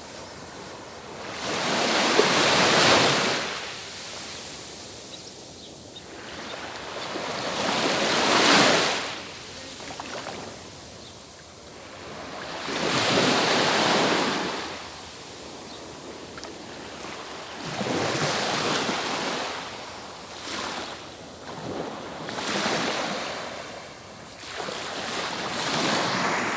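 Sea waves breaking on the shore and washing back, the surf swelling and fading about every four to five seconds.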